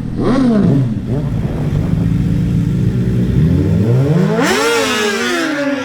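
Two Suzuki GSX-R1000 inline-four sportbikes on a drag strip. A quick rev blip is followed by engines held at a steady note, then a launch about three and a half seconds in, with the pitch climbing hard, dropping at a gear change and climbing again.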